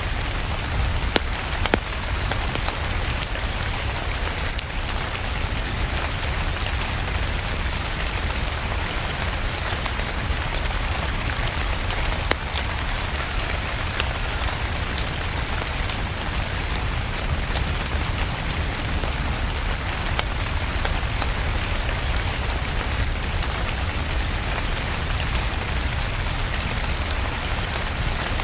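Steady rain falling, a continuous even hiss with a low rumble beneath it, dotted throughout with sharp little cracks, the crackle of a wood fire in a fireplace.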